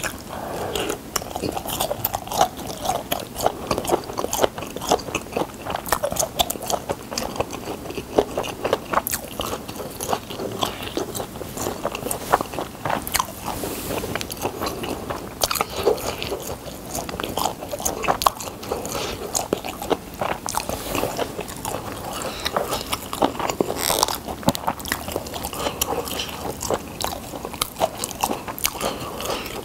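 Close-miked eating sounds: a steamed dumpling bitten and chewed, with many short sharp mouth clicks throughout.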